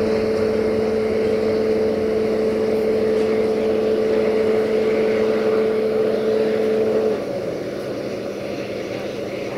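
Train running, heard from an open window aboard, with a steady engine hum from the LDH1500 diesel-hydraulic locomotive over rolling and wind noise. About seven seconds in the hum cuts off suddenly and the sound drops to a quieter rumble.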